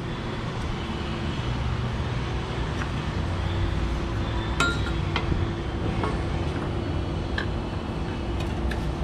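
Light metallic clinks as a suspension control arm and its hardware are handled and positioned, a few sharp taps scattered through, over a steady low rumble and hum.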